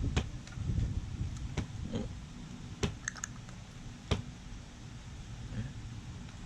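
About half a dozen light, scattered clicks and taps made while a baby is spoon-fed, with a soft low rumble of handling early on.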